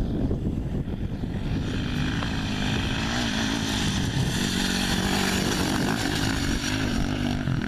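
Off-road motorcycle engine running at speed over wind noise on the microphone. Its engine note comes in about a second and a half in, then holds with a slight waver in pitch.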